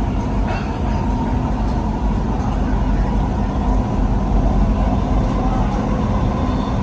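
Dubai Metro train running between stations, heard inside the carriage: a steady rumble with a constant electric hum.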